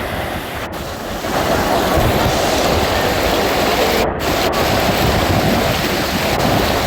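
Storm wind and rushing water making a dense, steady roar on the microphone, growing louder about a second in, with two very brief dropouts.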